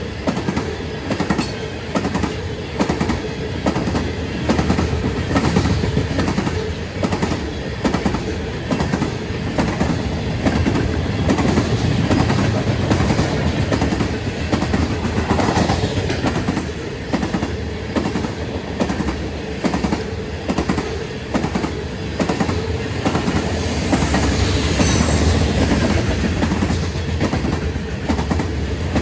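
Norfolk Southern freight train rolling past, its cars' wheels clicking rhythmically over the rail joints with a steady rumble; near the end a brief high wheel squeal rises above it.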